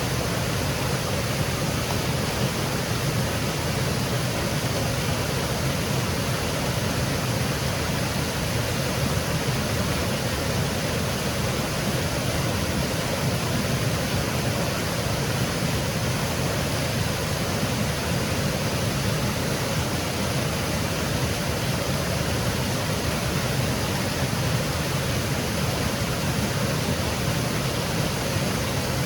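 Small woodland waterfall splashing, a steady rushing of falling water.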